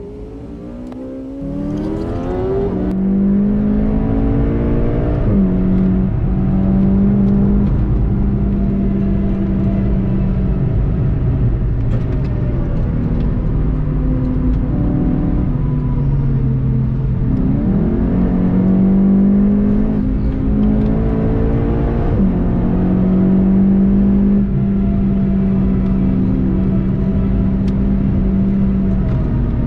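In-cabin sound of a VW Golf GTI TCR's turbocharged four-cylinder engine accelerating hard out of a slow section, its pitch rising over the first few seconds. It then pulls steadily at speed with tyre and wind noise, its pitch dipping briefly about halfway through and climbing again.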